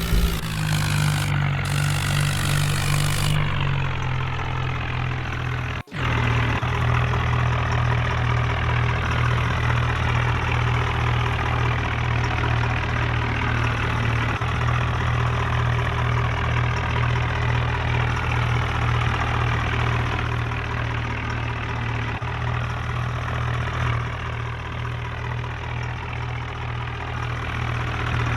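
Heavy tractor diesel engine running steadily under load, with a brief dropout about six seconds in.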